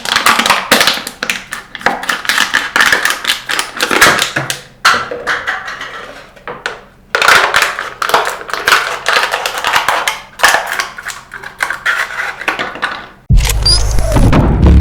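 A plastic water can being cut: loud, irregular crackling and scraping strokes in runs with short pauses. About thirteen seconds in this gives way to music with a heavy bass.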